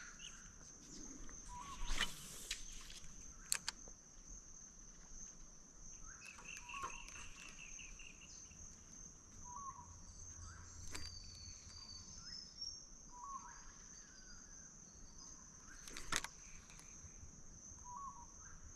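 Faint outdoor ambience: a steady high-pitched insect drone, with a short bird call repeating every few seconds and a brief bird trill about six seconds in. A few sharp clicks sound, the loudest about two seconds and sixteen seconds in.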